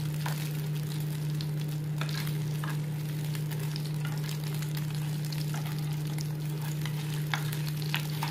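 Chicken shami kababs shallow-frying in hot oil: a steady sizzle with scattered pops and crackles, and the scrape of a metal spatula as the kababs are turned. A steady low hum runs underneath.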